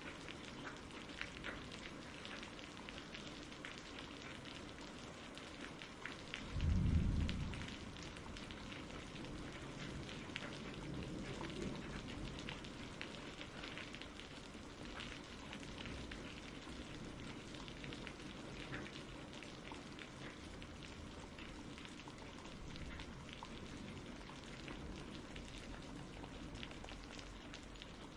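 Steady rain falling, with scattered drops pattering, and a short low rumble of thunder about seven seconds in.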